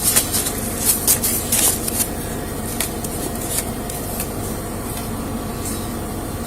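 Steady hum of a vehicle heard from inside its cabin, with a few brief rustles and scrapes in the first two seconds.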